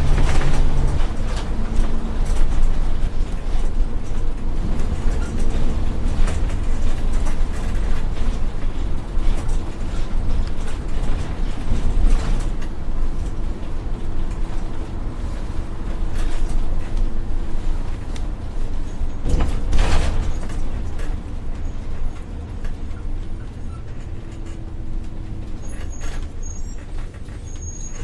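Mini DIY model tractor running, a steady mechanical clatter with a low rumble and many small clicks, as it works in mud.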